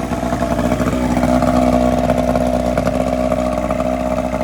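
Outboard motor running without its propeller on a test run of its newly replaced water pump impeller. It runs steadily, getting a little louder about a second in and then holding.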